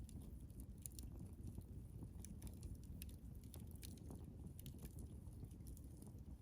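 Wood campfire crackling: irregular sharp pops and snaps of burning wood, several a second, over a low steady rumble.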